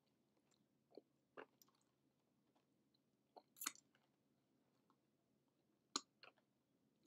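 Faint eating sounds from a person chewing a mouthful of mac and cheese with gravy: a few scattered wet mouth smacks and clicks, the loudest a little before four seconds in and two more close together near the end.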